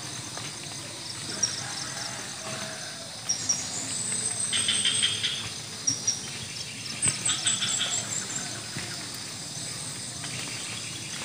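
Small birds chirping in quick runs of high, thin notes, busiest about four and seven seconds in, over steady countryside background noise.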